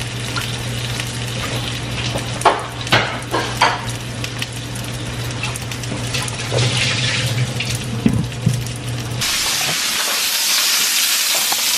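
Dumplings pan-frying in oil in a skillet, sizzling. A few sharp knocks come a few seconds in over a steady low hum, and about nine seconds in the sizzle suddenly becomes much louder and closer.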